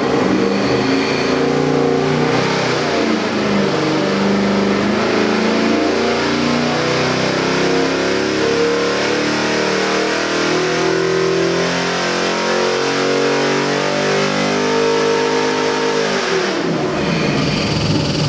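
Custom 441-cubic-inch LS V8 crate engine running on an engine dyno, its pitch moving up and down as the revs change. About sixteen seconds in, the engine note falls away, leaving a steady rushing noise.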